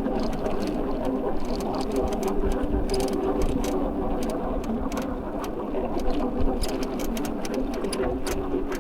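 Electric bike under way: the motor's steady whir, with rumble from the tyres and many scattered light clicks.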